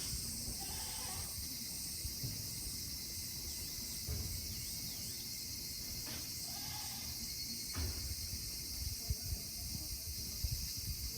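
Summer insects droning steadily in a high, even hiss, with a few soft thumps and knocks near the end.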